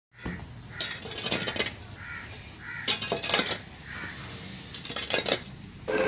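Harsh bird calls in three noisy bursts about a second and a half apart, with fainter short calls between them.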